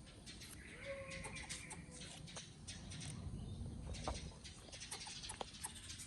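An animal's drawn-out call lasting over a second, starting about a second in, amid scattered clicks and rustling.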